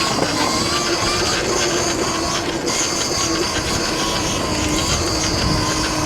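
Stomp Haywire electric dirt bike's motor whining at a steady pitch while riding, with wind buffeting the microphone.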